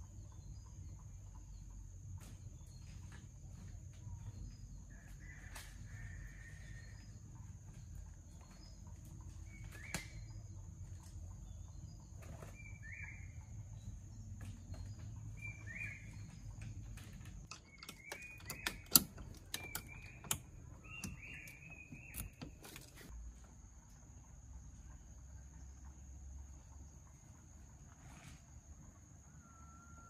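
Short bird calls every few seconds over a low rumble and a steady high whine, with a cluster of sharp knocks about two thirds of the way in, the loudest sounds.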